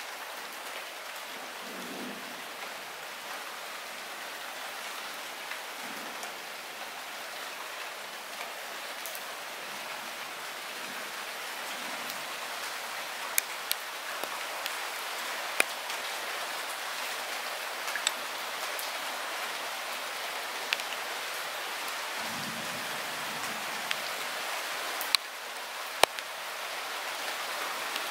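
Light rain falling steadily, growing slightly louder, with scattered sharp drip clicks from single heavier drops in the second half.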